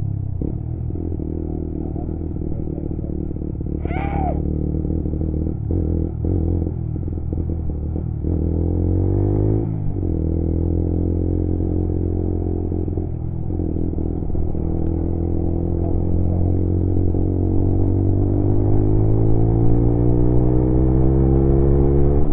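Lexmoto Assault 125cc motorcycle engine running under way. The revs rise, drop sharply at a gear change about ten seconds in, then climb slowly again through the second half. A short high squeak sounds about four seconds in.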